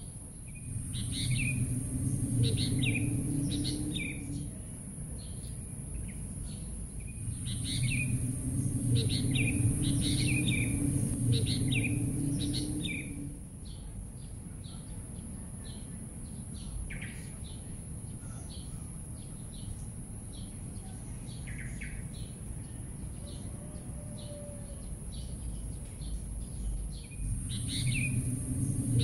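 Small birds chirping in quick clusters of short high calls, loudest in three spells (at the start, in the middle and near the end). Each spell comes with a low steady rumble, and a thin high hiss runs underneath.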